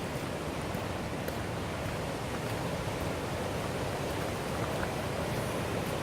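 River water rushing steadily over rapids, an even noise with no change.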